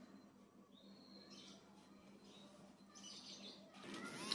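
Near silence with a few faint, short bird chirps over a low steady hum.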